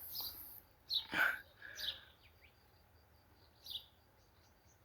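Songbirds chirping and calling in short phrases, with one louder call about a second in, and a faint run of evenly spaced high ticks through the second half.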